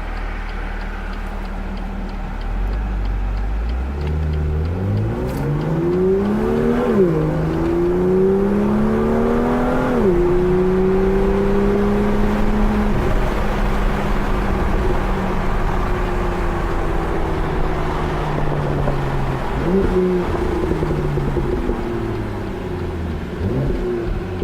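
2018 BMW M2's turbocharged inline-six under hard acceleration, its pitch climbing through two gears with a sudden drop at each upshift. It then holds a steady, slowly falling cruise, with two brief rises in revs near the end.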